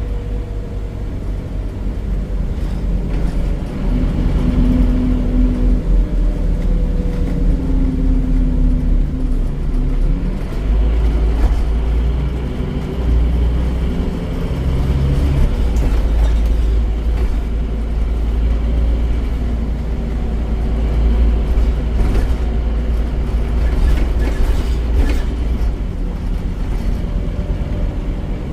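Scania OmniCity bus with a Scania DC9 9.3-litre five-cylinder diesel and ZF automatic gearbox, running under way. Its low engine note grows louder about ten seconds in, and short steady whines sound between about four and nine seconds.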